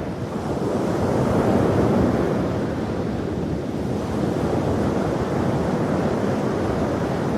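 Ocean waves breaking and washing on a shore, a steady rushing surf that swells and eases.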